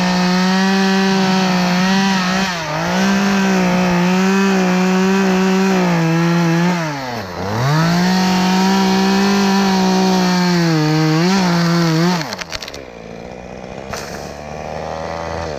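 Chainsaw running at full throttle cutting wood, its pitch sagging a little under load; the throttle is let off briefly twice and the saw revs straight back up. About twelve seconds in the throttle is released and the engine note falls away.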